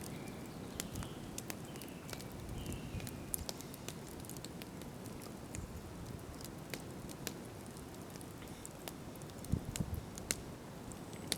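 Wood campfire burning, with sharp, irregular crackles and pops over a low, steady background noise. A couple of soft low thumps come near the end.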